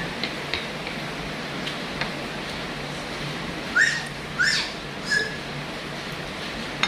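A bird gives three short upward-sweeping calls, about four, four and a half and five seconds in, over the steady hiss of rain.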